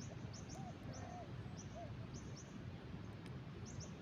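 Birds calling: short high chirps, often in quick pairs, with a short low hooting call repeated every second or so, over a steady low rumble of background noise.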